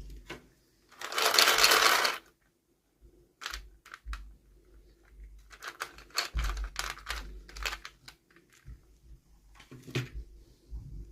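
Toy packaging being handled and opened: a loud rustle of wrapping about a second in, then a run of light clicks and taps from small plastic pieces, with another click near the end.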